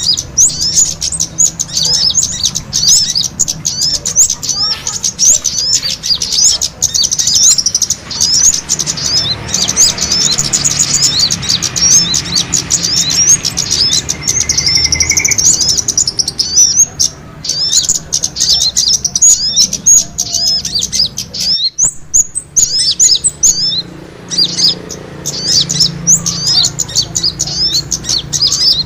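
Bird-lure recording of many small birds twittering in rapid, high-pitched chirps, dense and unbroken like a flock squabbling, with a brief drop-out about two-thirds of the way through.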